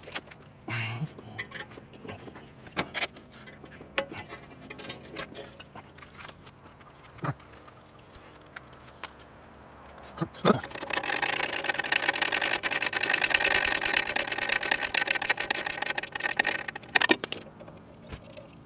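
Metal hand tools clinking and rattling, with scattered clicks and knocks. About ten seconds in, a denser metallic rattle starts and lasts around six seconds.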